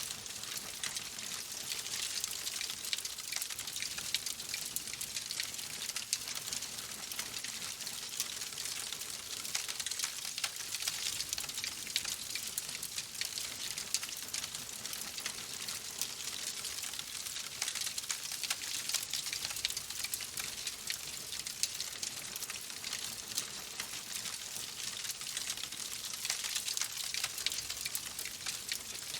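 Wood fire crackling in a fireplace: a steady hiss with many small, sharp pops and snaps.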